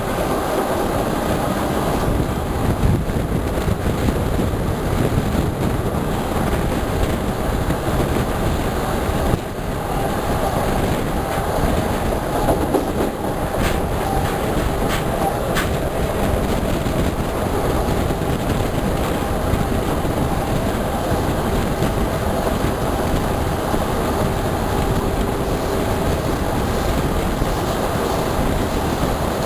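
Vitória–Minas passenger train P001 running at speed, its steel wheels rolling on the rails in a steady, loud rumble.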